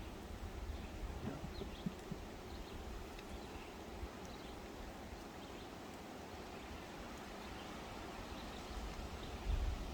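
Steady faint hum of honey bees around an opened hive during a frame inspection, with a low wind rumble on the microphone that grows louder near the end and a few small clicks.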